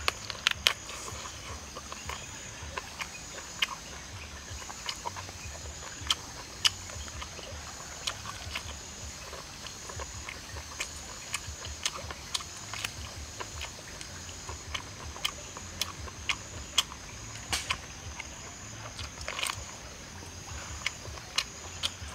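Close-up eating sounds: wet chewing and lip-smacking as meat is bitten and torn off a cooked chicken leg, many short sharp clicks scattered through. Under it runs a steady high drone of insects.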